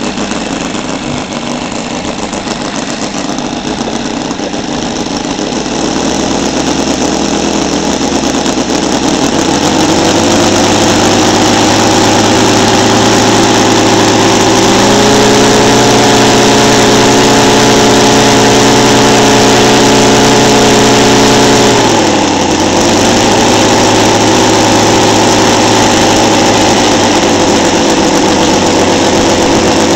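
Seidel 7-70 seven-cylinder radial model aircraft engine turning a 24 x 10 propeller during break-in. It speeds up over the first ten seconds and runs steadily at high speed. About two thirds of the way in it eases back a little and then runs steady again.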